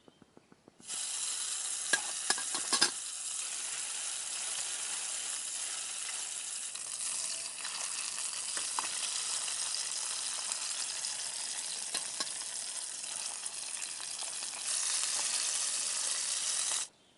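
Food frying in a pan: a steady, dense sizzle with a cluster of sharp crackles and pops a couple of seconds in. It cuts in and cuts off abruptly.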